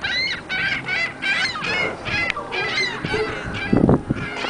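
A flock of seagulls calling over one another: many short squawks that rise and fall in pitch, several a second, with a brief lower-pitched sound a little before the end.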